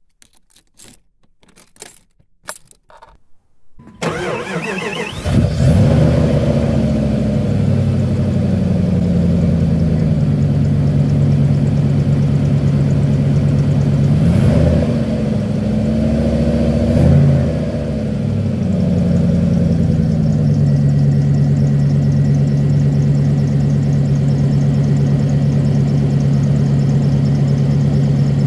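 An off-road 4x4's engine is started about four seconds in: a short crank, then it catches. It runs with two quick revs that rise and fall back, then settles into a steady idle.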